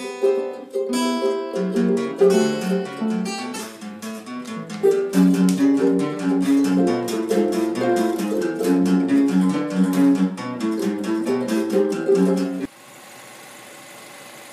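Guitar playing: picked notes, then rhythmic chords, stopping abruptly about twelve and a half seconds in, leaving a low steady background noise.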